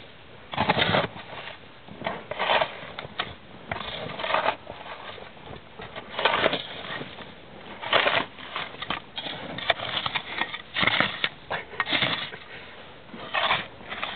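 Packed snow crunching and scraping in short, irregular strokes, about fifteen of them spread across the stretch, as snow is dug or trodden.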